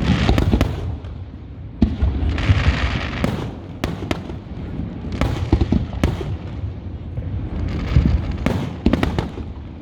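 Aerial fireworks show: a run of shell bursts, sharp cracks and deep booms every second or so, with rumbling echoes and crackling between them.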